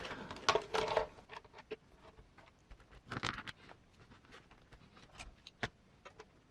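Small clicks and light scraping of a hobby-scale RC truck axle and chassis parts being handled and fitted together by hand, with a brief louder rattle about three seconds in and a single sharp click near six seconds.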